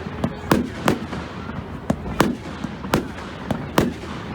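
Fireworks going off in quick succession: about a dozen sharp bangs, each trailing off in an echo.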